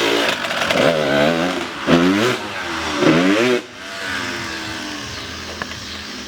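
Dirt bike engine revved in three quick blips, its pitch rising and falling each time. About four seconds in it drops back to a quieter, steady idle.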